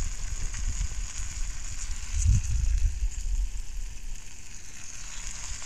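Chicken breast strips frying in oil in a foil-covered cast iron skillet: a steady, high sizzle. A low rumble swells about two seconds in.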